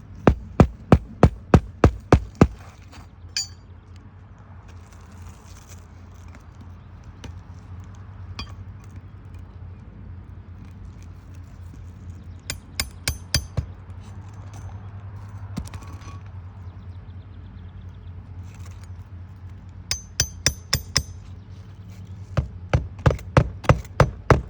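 Hammer driving roofing nails into asphalt shingles: quick runs of sharp metallic strikes, about four a second, at the start, around the middle and twice near the end.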